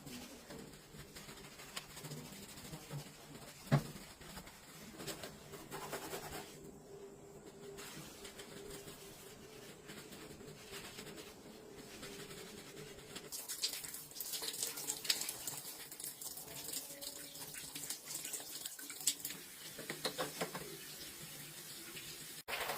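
Water running, as at a sink, with light clattering and splashing that gets busier in the second half. There is one sharp knock about four seconds in.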